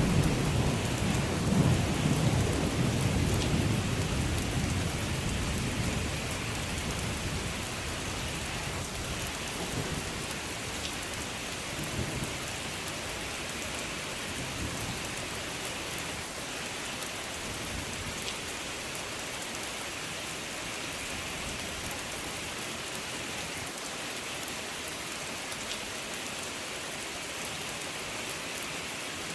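Steady heavy rain falling, with a deep rumble of thunder that starts loud and fades away over the first several seconds, and a fainter roll of thunder about twelve seconds in.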